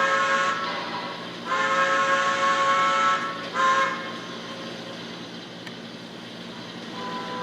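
Steam locomotive whistle from an HO scale model's sound system, sounding in several blasts: a short one at the start, a long one of about a second and a half, and a short toot soon after, with a fainter blast beginning near the end, over a steady hiss.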